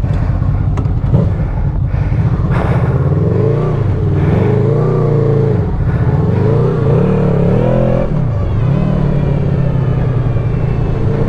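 Honda VFR800F's V4 VTEC engine through an SC Project exhaust. It holds a steady note, then from about three seconds in the revs rise and fall several times before settling back to a steady note near the end.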